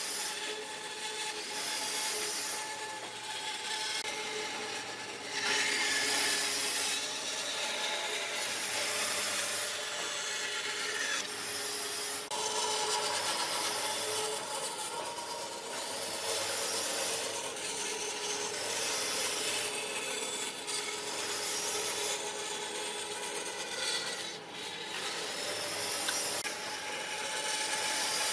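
Hand tool rubbing back and forth across wood in repeated strokes, roughly one every one to two seconds, a dry scraping of abrasion like sanding or rasping.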